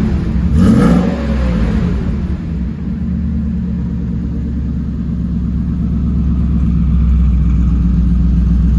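2000 Ford F-150 Lightning's supercharged 5.4-litre V8 with headers and a MagnaFlow exhaust, revved once about a second in and then idling steadily.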